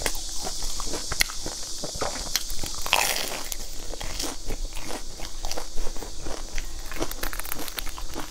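Close-up chewing of a crumb-coated fried bun: a steady run of small crisp crunches, with one louder crunch about three seconds in.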